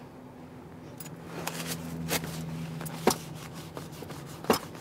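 Low steady hum of a car's engine heard inside the cabin, with a handful of sharp clicks scattered through it.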